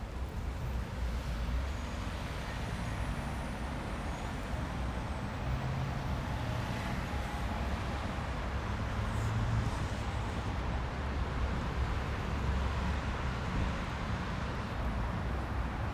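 Steady road traffic on a busy urban road: a constant rumble and tyre hiss of passing vehicles, with a heavy vehicle's low engine hum growing stronger around the middle.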